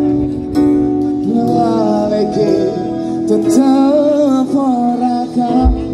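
Live dangdut band playing, with plucked guitar and held chords; a singer's voice comes in about a second in and carries a melody until near the end.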